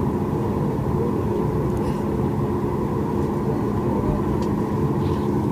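Steady cabin hum inside a Boeing 737 MAX 8, a constant low drone with a few steady tones in it.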